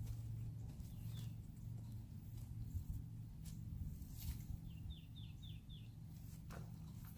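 A bird calls a quick run of four short, falling chirps about five seconds in, over a steady low hum and a few scattered clicks and knocks.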